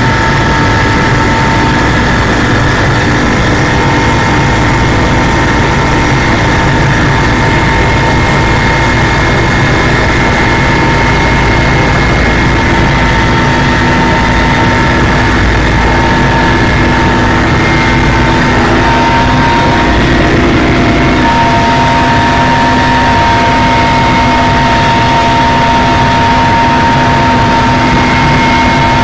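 Helicopter in flight: steady engine and rotor noise with a constant whine above a heavy low rumble. The rumble eases a little about two-thirds of the way through.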